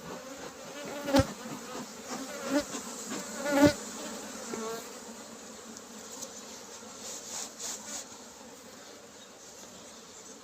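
Honeybees buzzing around an open hive, stirred up by the inspection; single bees flying close by rise and fall in pitch. A few sharp knocks come in the first four seconds, the loudest just before the four-second mark.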